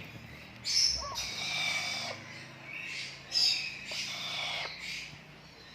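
Pet parrot vocalizing in two loud bursts, one about a second in and another a little past three seconds, each lasting over a second.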